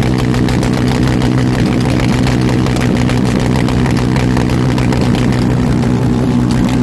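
Motorcycle engine held at a steady high rev on a two-step rev limiter, its note unchanging with a fast crackle from the ignition cut.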